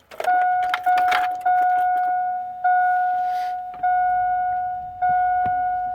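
Truck dashboard warning chime: a single steady tone sounding six times, at first a little faster and then about once a second, with the ignition on and the engine not yet running. Keys rattle during the first chimes.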